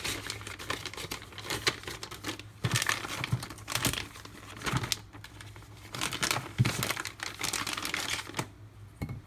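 D2 steel knife blade drawn across a leather strop loaded with 0.25 micron diamond paste, in a string of repeated short scraping strokes: the final stropping stage of sharpening.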